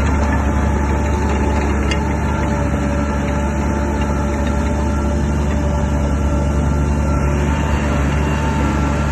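Shantui DH17 bulldozer's diesel engine running steadily under work.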